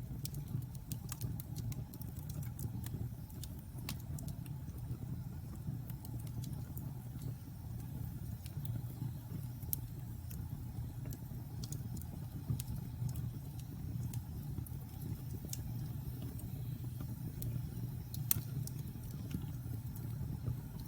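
Wood fire burning in a fireplace: a steady low rumble of flames with irregular, scattered crackles and pops, two sharper pops standing out in the second half.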